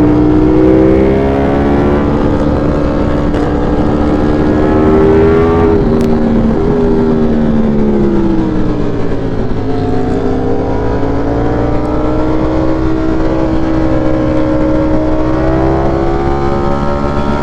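V4 sport motorcycle engine pulling away under load: its pitch climbs for the first five seconds, breaks briefly around six seconds, sags through to about ten seconds, then slowly rises again.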